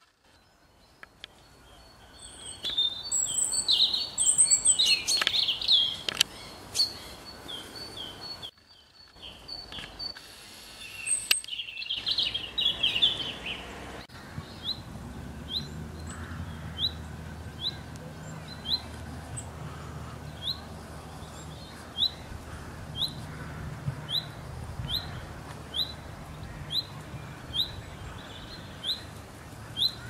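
Small birds chirping. Then a single bird repeats one short, rising high call about one and a half times a second over a low, steady rumble.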